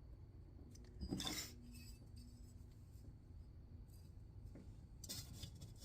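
Faint handling noises at a workbench over low room tone: a short rustle with a light knock about a second in, and another rustle near the end.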